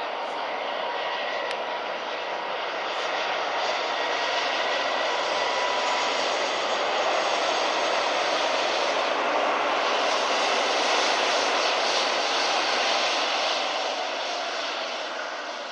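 Aircraft engine roar, with faint steady whine tones in it, swelling a few seconds in and fading near the end.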